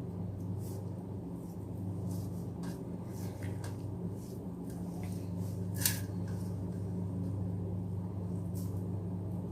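Eating sounds: scattered faint clicks and smacks of a person starting to eat rice and mashed potato, with one sharper click about six seconds in, over a steady low hum.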